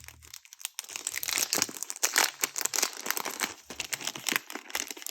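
Plastic packaging crinkling and crackling as it is handled and pulled open from around a pencil board. The crackles come thick and fast from about a second in and die down near the end.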